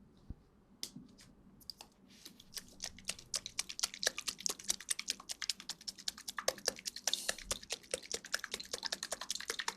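Close-miked rustling: a dense, rapid crackle of small clicks that starts sparsely and thickens from about two seconds in.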